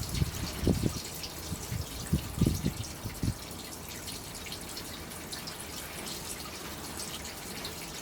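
Old engine oil dripping and trickling from a Gilera DNA 180cc scooter's drain into a catch container, as a steady run of small drips. A few low, dull knocks come in the first three seconds.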